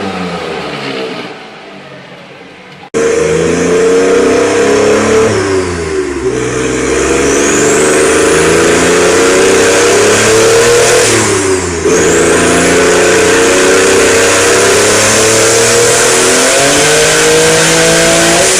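Three-cylinder car engine. At first its note falls and fades. About three seconds in, a louder recording cuts in: the engine revs hard, its pitch climbing and then dropping back sharply twice before holding steady.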